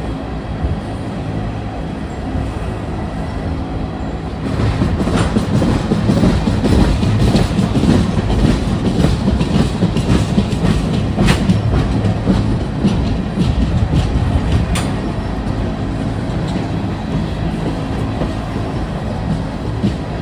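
Train cars rolling past, wheels clicking and clattering over the rail joints over a steady rumble. It gets louder about four seconds in, with the sharpest clicks through the middle, then eases a little toward the end.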